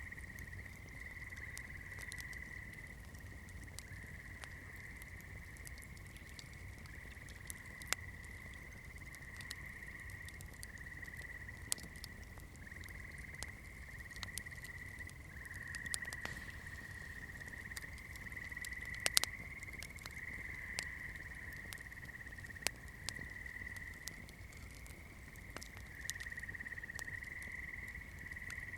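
Wood fire crackling, with scattered sharp pops, the loudest about 19 seconds in, over a low rumble and a steady high-pitched whine that shifts slightly in pitch.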